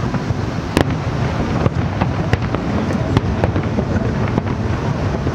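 Aerial fireworks shells bursting: an irregular series of sharp bangs and cracks, the loudest about a second in, over a continuous low rumble of overlapping explosions.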